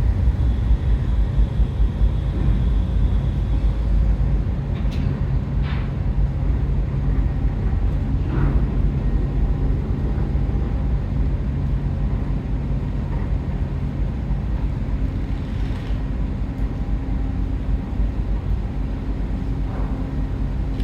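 Car ferry Orange Shikoku's engines and machinery running with a steady low hum and rumble, the rumble heavier for the first four seconds. A few short knocks or clanks come through about five, six, eight and sixteen seconds in.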